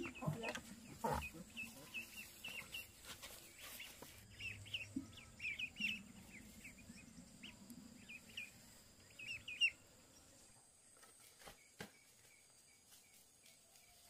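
Birds chirping in quick, short high calls, thinning out after about ten seconds, with a few sharp knocks, the loudest about nine and a half seconds in.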